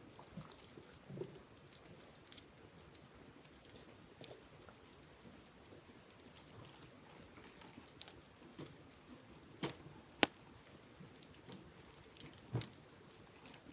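Wood campfire crackling: scattered sharp pops and snaps from the burning logs, the loudest about ten seconds in.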